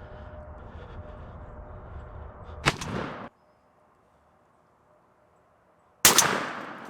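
A single gunshot at a turkey about six seconds in, a loud sharp crack that rings out and fades over most of a second. Before it there is a sharp knock near three seconds in, then about three seconds of near silence.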